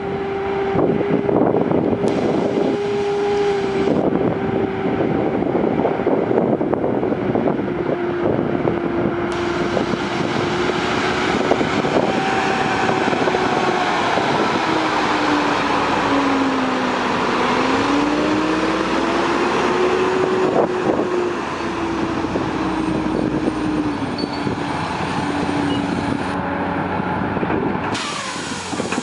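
Caterpillar 345CL excavator's diesel engine working under digging load. Its steady drone sags in pitch about halfway through, then recovers.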